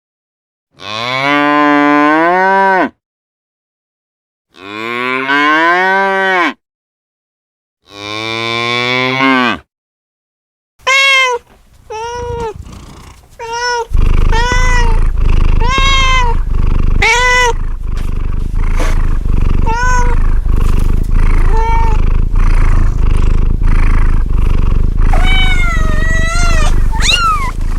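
A cow mooing three times, each moo long and drawn out with pauses between. Then comes a quick series of short, arched animal calls over a steady background hiss, and near the end a cat starts meowing.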